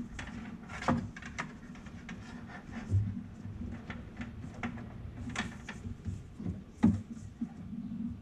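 Irregular clicks, clinks and knocks of hand tools and parts being handled while working on a car's engine bay, over a steady low hum. The loudest knocks come about a second in, about three seconds in and near the end.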